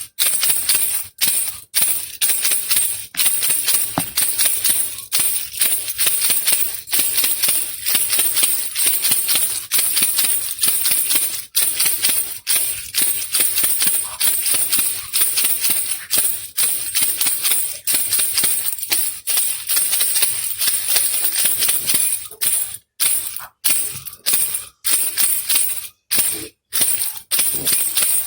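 Handheld baby rattle (khulkhula) shaken steadily, its loose beads rattling in a fast, dense stream. Near the start and again near the end it is shaken in separate short shakes with brief pauses between them.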